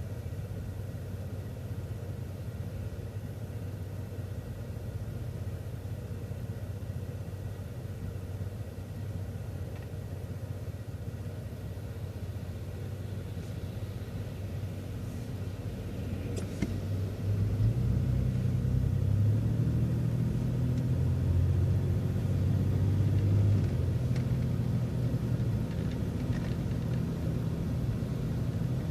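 City transit bus engine and drivetrain running, heard from inside the bus as a steady low rumble. A little over halfway through, the engine note steps up and grows louder as the bus gathers speed.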